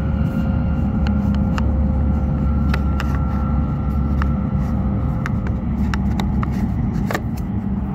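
Interior running noise of an E5 series Shinkansen train: a steady low rumble with a faint steady whine that stops about two thirds of the way through, and scattered light clicks.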